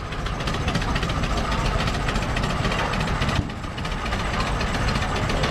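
Vintage tractor engine running, a continuous engine sound with a brief drop about three and a half seconds in.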